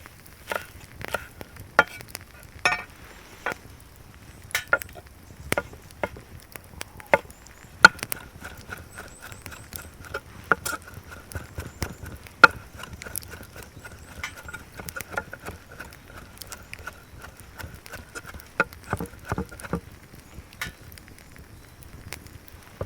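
Camp cooking work: irregular sharp knocks and taps, well over a dozen, of utensils striking a pan or board. About eight seconds in a thin steady high tone joins them and stops near twenty seconds.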